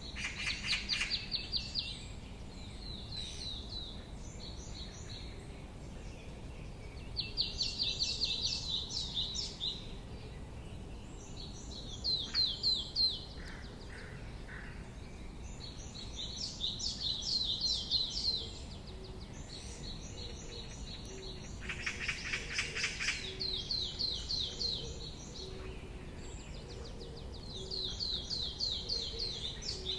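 A songbird singing: high, rapid trilled phrases of quickly repeated notes, each about two seconds long, with pauses of a few seconds between them. About 22 seconds in, a louder, lower burst of call notes comes in. A steady low background rumble runs underneath.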